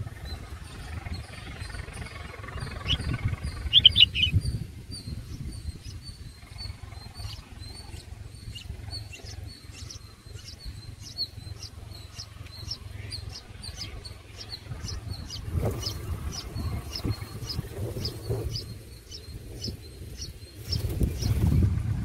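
Small birds calling: a short, loud burst of chirps about four seconds in, then a faint high call repeated about twice a second, over a steady low rumble.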